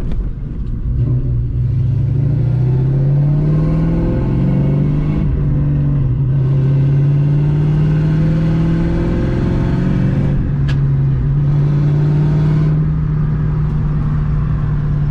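Mustang GT's 4.6-litre two-valve V8 pulling the car under light acceleration. The engine note rises, drops briefly about five seconds in and again near ten seconds as gears are changed, then holds steady.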